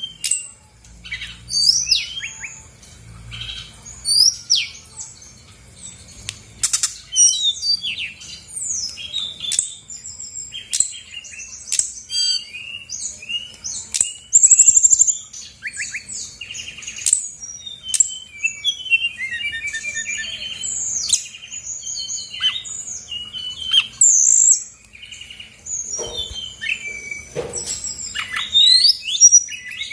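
Brown-chested jungle flycatcher singing without pause: a fast, varied run of sharp chirps, slurred whistles and short trills, with its loudest phrase about halfway through.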